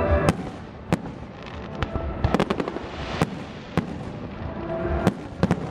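Aerial fireworks shells bursting: a string of sharp bangs at irregular intervals, with a quick cluster of several in a row around the middle.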